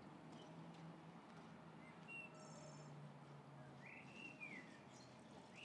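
Quiet garden ambience: a few faint bird chirps, with one arching call about four seconds in, over a low steady hum.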